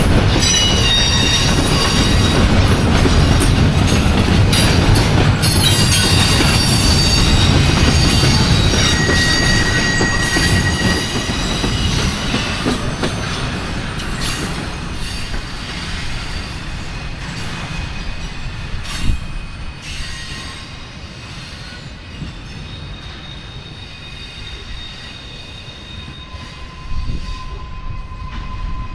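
Freight train cars rolling by with wheels squealing in thin, high, steady tones over a heavy rumble. The sound fades steadily as the train moves off.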